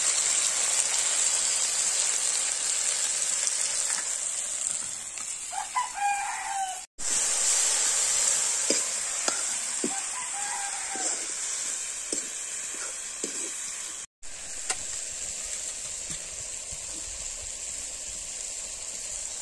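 Tomatoes sizzling steadily as they fry in a wok over a wood fire. A rooster crows about six seconds in and again around ten seconds, and a metal ladle knocks against the wok a few times in the middle.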